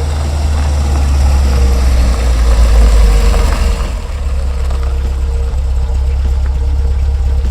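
Car engine idling with a steady low rumble that swells slightly about two to three seconds in.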